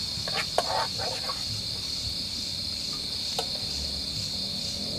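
Crickets chirring steadily in a high, even band. In the first second or so there are a few short clinks and scrapes of cooking utensils, and a single sharp click comes about three and a half seconds in.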